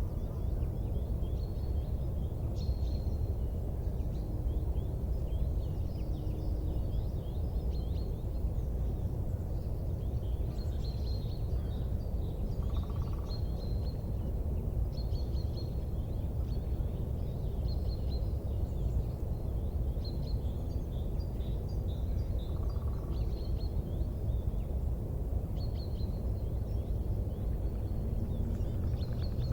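Steady low rumble with frequent faint, high chirps of small birds through it.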